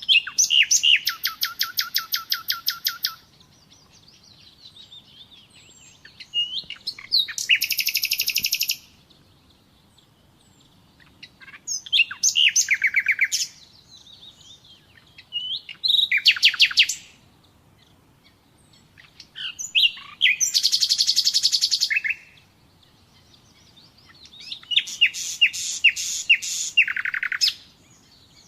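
Common nightingale singing: six phrases of fast repeated notes and trills, each one to three seconds long, separated by pauses of a few seconds.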